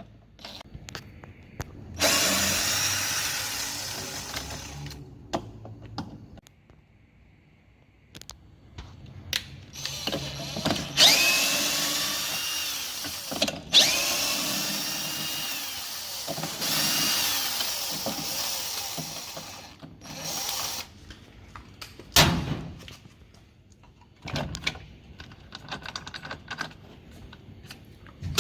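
Power drill-driver unfastening screws to take apart a washing machine's direct-drive motor, running in several bursts of a few seconds each, its whine rising and falling with speed. Clicks and knocks of tools and parts being handled come between the runs.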